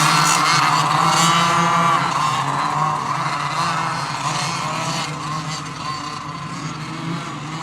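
Two-stroke racing go-kart engines buzzing at high revs on a track, loudest over the first two seconds, then quieter and steadier.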